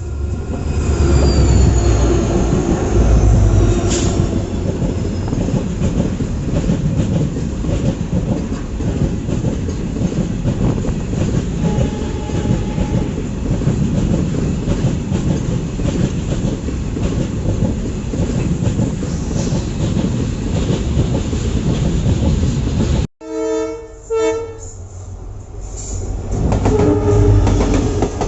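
Passenger express train running at speed, heard on board as a steady loud rumble of wheels on the rails. Near the end a horn sounds twice in short blasts.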